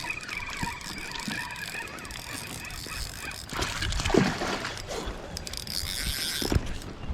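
Kayak on the open water: a steady faint background with a thin whine for the first few seconds, then louder water and wind noise with two sharp knocks against the hull.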